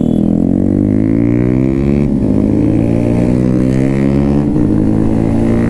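Motorcycle engine accelerating in steady pulls, its pitch climbing and then dropping at a gear change, twice: about two seconds in and again about four and a half seconds in.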